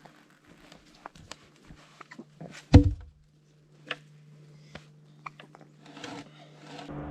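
Scattered light taps and clicks, with one loud thump almost three seconds in; after it a faint steady low hum sits underneath.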